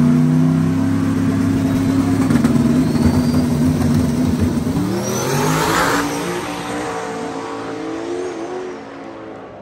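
A drag-racing vehicle's engine held at steady revs, then launching about five seconds in and accelerating away, its pitch rising through the run as it fades into the distance.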